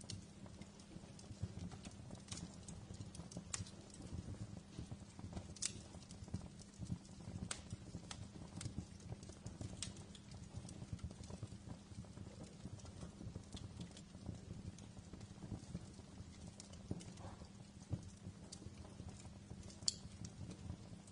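Wood fire crackling in a fireplace: irregular sharp pops and ticks over a low, steady rumble, with one louder pop near the end.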